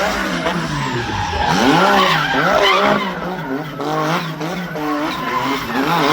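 Race car engine revving hard, its pitch swinging up and down again and again, with tyres squealing.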